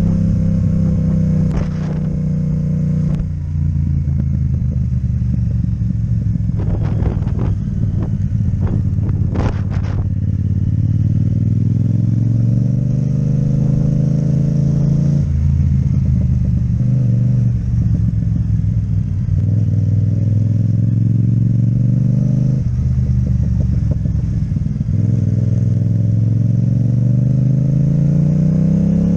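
Yamaha MT-07 parallel-twin engine with an Akrapovic exhaust, pulling under way. Its pitch climbs steadily and drops sharply at upshifts, about three seconds in, midway through and again a little later. A few sharp knocks sound in the first third.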